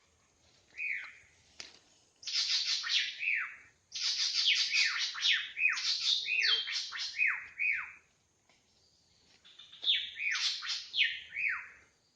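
A drongo calling in several bursts of quick, harsh notes that sweep down in pitch. There is a short phrase about a second in, a long run of notes from about two to eight seconds, and a final phrase near the end.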